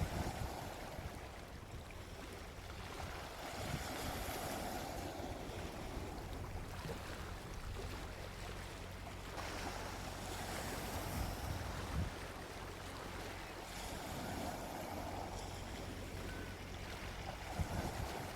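Gentle ocean waves breaking and washing up on a beach, each swell rising and falling about every five to six seconds.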